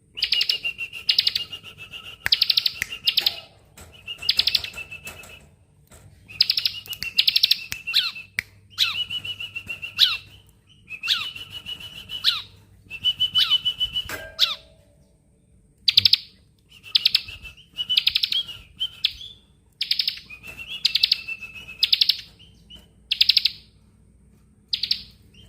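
A bar-winged prinia (ciblek) singing close-packed 'bren' calls: short, fast buzzing trills repeated about once a second, with only brief pauses between them.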